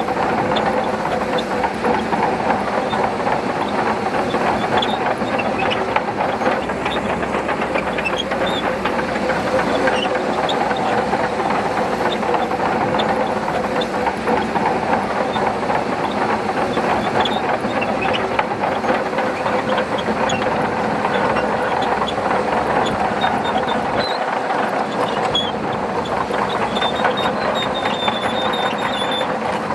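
Shantui DH17C2 bulldozer's diesel engine running steadily under load, with a constant light clatter of its steel tracks.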